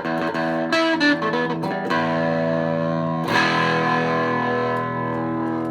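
Old Japanese electric guitar with a tremolo block weighted with added cast metal, played through an amplifier: a run of quick picked notes, then a chord struck about three seconds in and left to ring out with long sustain.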